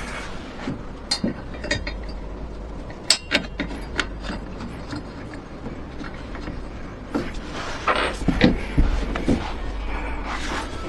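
Scattered clicks and clatter of hand tools and small parts being handled during repair work, with a busier run of rattling about seven to nine seconds in, over a steady low hum.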